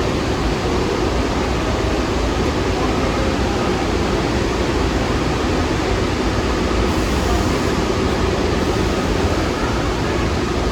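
New York City subway train in motion, a steady, loud running noise that holds an even level throughout.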